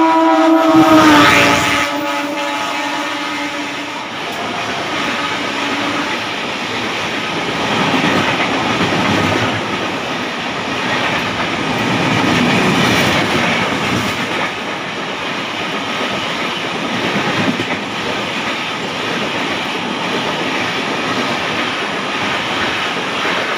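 Passenger train hauled by an Indian Railways electric locomotive going past: the locomotive's horn sounds at the start, falling in pitch and dying away within a couple of seconds, then the coaches' wheels run on the rails in a long, loud, steady rush that swells and eases.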